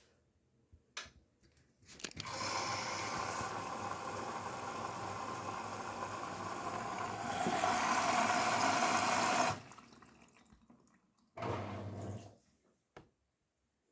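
Grundig washing machine drawing in water through its inlet valve: a rush of water for about seven seconds that cuts off suddenly, then a shorter burst about two seconds later.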